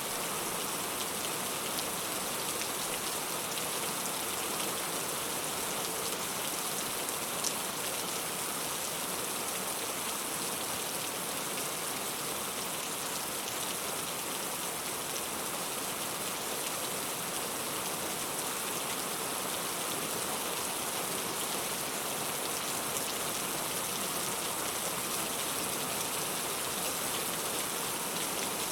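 Heavy rain falling steadily, an even dense hiss of drops hitting surfaces, with one sharper tap about seven seconds in.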